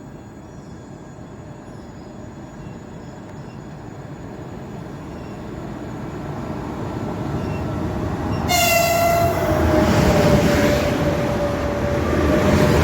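A 2ES5K 'Ermak' electric locomotive pair with a freight train approaches, the rumble of wheels on rail growing steadily louder; about two-thirds of the way in the locomotive sounds its horn, a long steady tone that is still sounding at the end.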